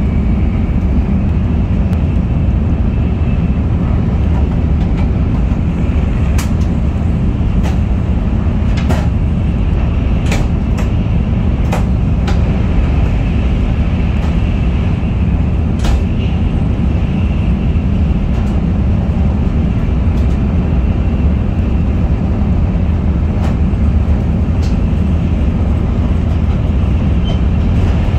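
Shinkansen bullet train running at speed, heard from inside the car: a steady loud low rumble with a faint hiss above it and scattered small clicks and rattles.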